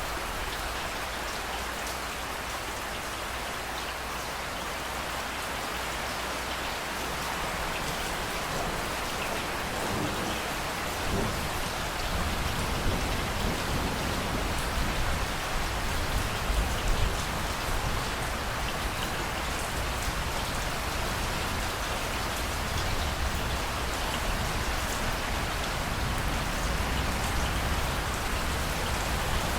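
Steady rain falling and pattering on surfaces. About ten seconds in, a low rumble of distant thunder comes up under it, swelling for several seconds before it settles.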